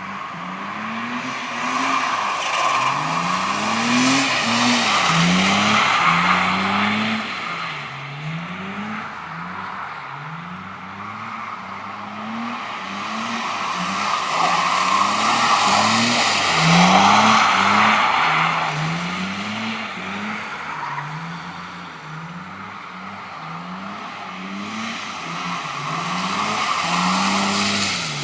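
BMW E30 320i's M20 two-litre straight-six revving up and down over and over as the car drifts on a wet road, over the hiss of spinning tyres on wet tarmac. The tyre hiss swells loudest twice, a few seconds in and again around the middle.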